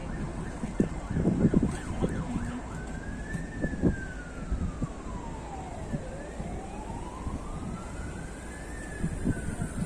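Emergency vehicle siren wailing in slow rising and falling sweeps, about one full rise and fall every five seconds. A few low thumps sound about a second or two in.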